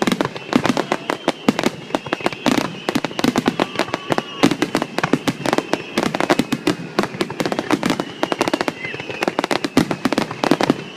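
Fireworks finale: a dense, unbroken barrage of sharp bangs and crackles, many per second.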